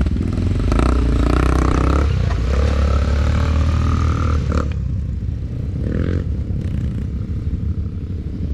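ATV engine running under throttle, its pitch shifting up and down, then easing off about halfway through to a lower, steady running sound.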